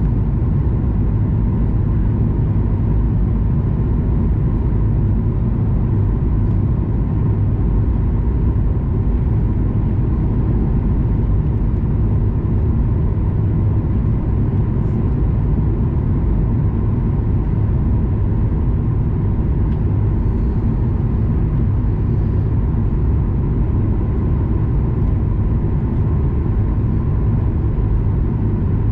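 Steady cabin noise inside a Boeing 737 MAX 9 with its CFM LEAP-1B engines running: an even low rumble with a thin steady tone above it, unchanging throughout.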